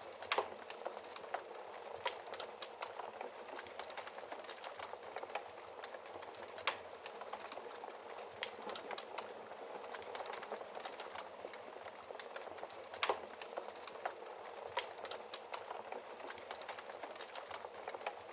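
Fire burning in a fireplace: a steady hiss with irregular sharp crackles and pops, a few of them much louder than the rest.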